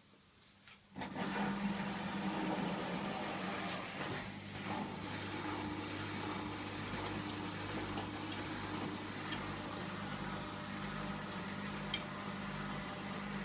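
Hotpoint washing machine running mid-cycle, before the spin: a steady hum with a hiss of water, starting suddenly about a second in, with a few light clicks.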